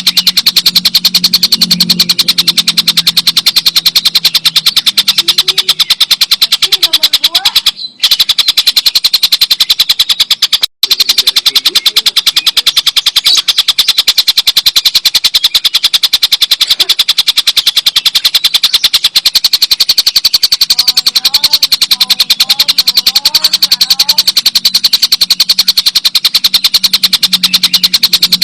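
Stork-billed kingfisher giving its long, loud cackling call, a fast unbroken rattle of sharp notes. The call cuts out twice, briefly, near a third of the way in.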